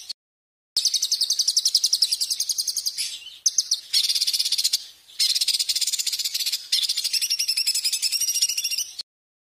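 Small songbird giving fast, high-pitched trilling chatter in repeated loud bursts, with abrupt edit cuts between segments and sudden silence near the end.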